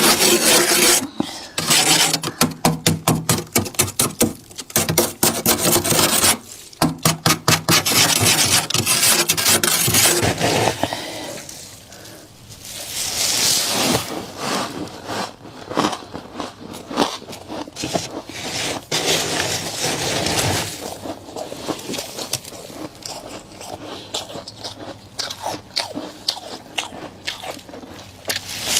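Powdery freezer frost being scraped off a freezer's walls in quick repeated strokes, several a second, for about the first ten seconds. After that come softer, irregular scraping and crunching sounds from the frost.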